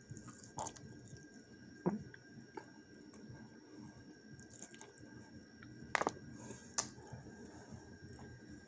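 Quiet wet chewing and mouth sounds of a person eating a forkful of lemon chicken, with a few sharp clicks, the loudest about six seconds in.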